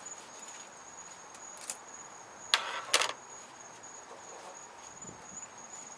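Crickets chirping steadily in the background, with two short sharp clicks of parts being handled about halfway through.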